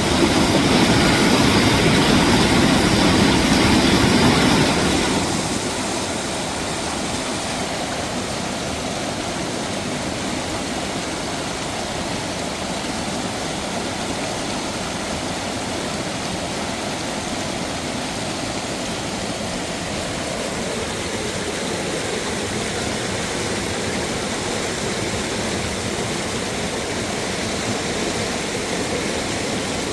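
Rushing water of a mountain waterfall or stream, a steady noise that is louder for about the first five seconds and then settles.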